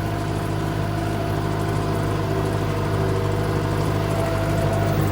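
Tractor engine and 12-foot mower running steadily at a constant speed.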